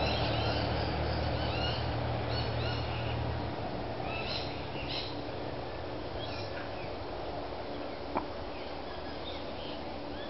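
Small birds chirping in short, quick notes that bend up and down in pitch, over a low steady hum that stops about three and a half seconds in. A single sharp click about eight seconds in.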